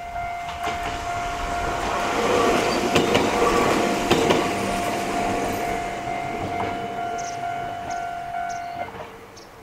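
Gakunan Railway electric train passing over a level crossing: the running noise swells to a peak a few seconds in, with sharp wheel clicks over the rail joints, and then fades away. A steady high tone runs with it and stops shortly before the end.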